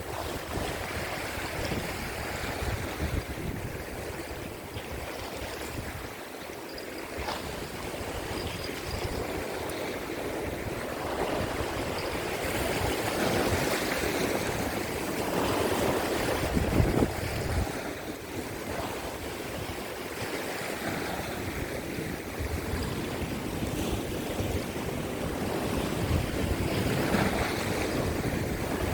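Sea waves breaking against a rocky shore, the surge rising and easing in swells, with strong gusty wind buffeting the microphone.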